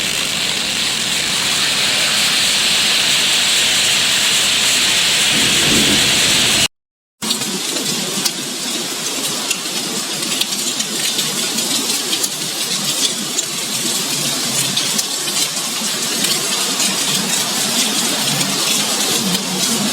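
Hail and heavy rain pelting down. First a steady hiss, then, after a half-second break of silence about seven seconds in, a denser clatter of many small hailstone impacts.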